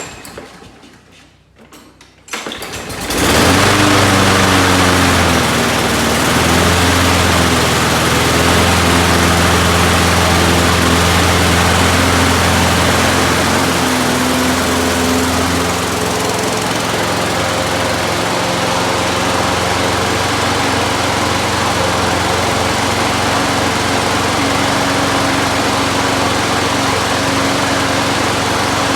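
Craftsman 650 series lawn mower engine, a small single-cylinder four-stroke, catching about three seconds in after a few quiet knocks and then running steadily. The engine now starts and runs after the carburetor cleaning and fresh gas, so the no-start fault is cured.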